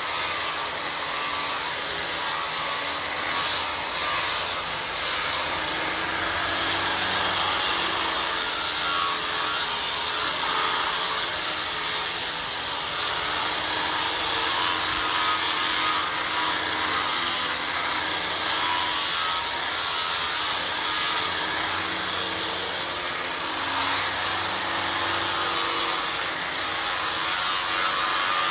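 Power sander running steadily, grinding over the surface of coralina coral-stone pool-deck tiles.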